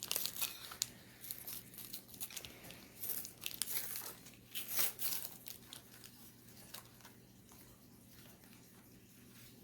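Trading card blister pack being torn open: cardboard and plastic packaging tearing and crinkling in irregular bursts for about five seconds, then dying down to faint rustling.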